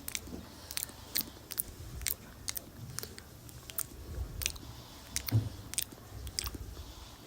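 Close-up chewing of a mouthful of food, with wet mouth clicks and smacks about twice a second and soft jaw thumps between them.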